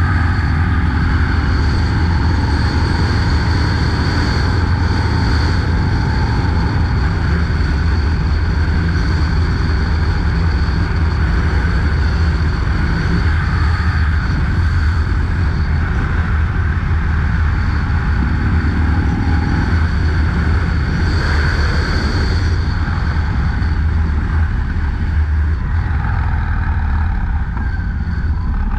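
Harley-Davidson FXDLS Low Rider S V-twin engine running steadily as the motorcycle cruises, its pitch shifting slightly a little past the middle.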